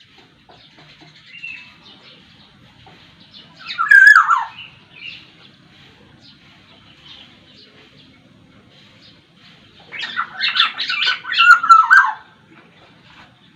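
Black-naped oriole (Sumbawa kepodang) calling: a short harsh call falling in pitch about four seconds in, then a longer run of quick, varied notes that ends in falling notes. Faint chirping of other small birds runs underneath.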